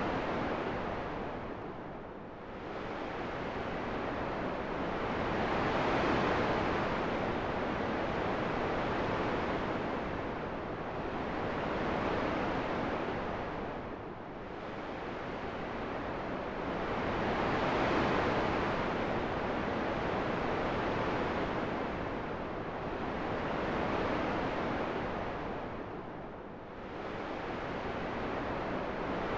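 Rushing wind noise that swells and eases in slow gusts, falling away briefly about two seconds in, again near the middle and again near the end.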